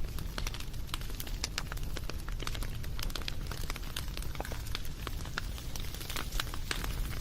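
Wood fire crackling: many quick, irregular pops and snaps over a steady low rumble of burning.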